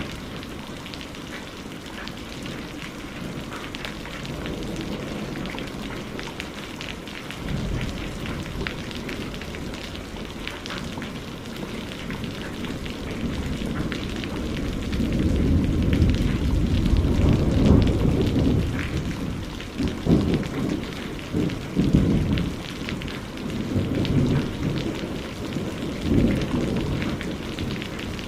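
Steady rain pattering, with deep rolling thunder that builds about halfway through and rumbles in repeated surges toward the end.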